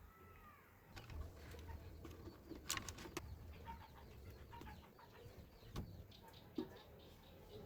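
Faint bird calls with a few light clicks and taps.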